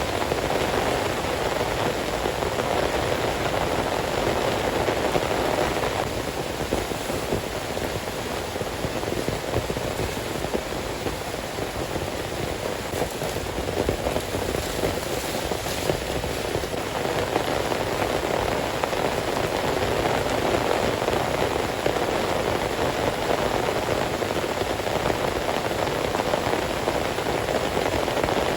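Heavy rain falling in a steady, dense patter, easing slightly for a stretch in the middle before picking up again.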